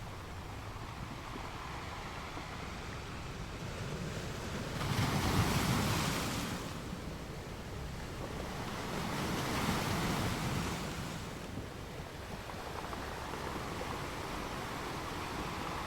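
Sea waves breaking on a rocky beach: a steady wash of surf with two bigger waves surging in, about five seconds and ten seconds in.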